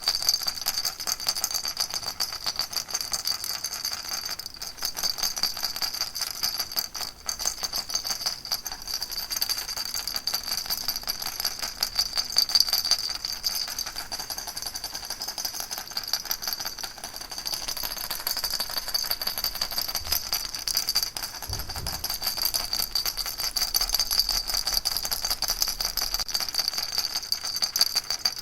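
Baby rattle shaken without pause, a steady, fast rattling of many small strikes with a high, bright ringing over it.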